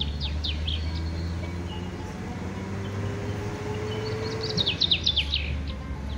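Two quick runs of high, steeply falling bird chirps, about half a second in and again around four to five seconds in, over soft sustained background music.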